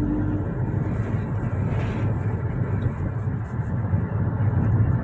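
Steady low rumble of outdoor city background noise, like distant vehicle traffic.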